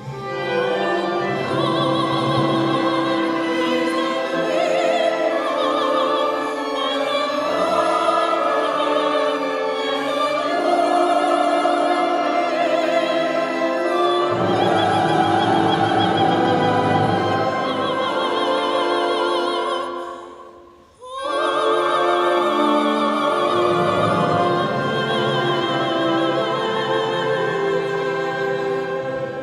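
Classical singing with orchestral accompaniment, the sustained notes carrying a wide vibrato. The music breaks off briefly about two-thirds of the way through, then starts again.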